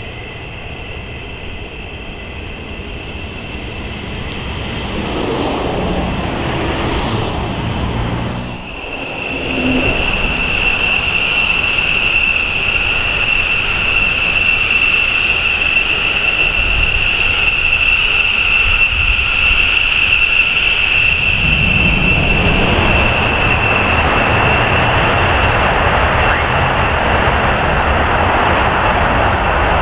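F-15 Eagle jet engines building up loudly, with a steady high-pitched whine held for over ten seconds. In the last third the broad rushing roar swells and grows louder.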